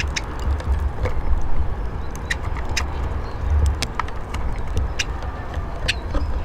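Eurasian siskins pecking and husking seed on a wooden bird table: irregular sharp clicks and taps, several a second, over a steady low rumble.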